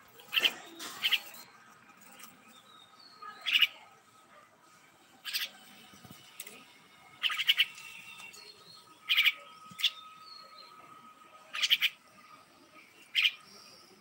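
A small caged pet bird giving short, pulsed chirping calls, about nine of them, spaced every one to two seconds.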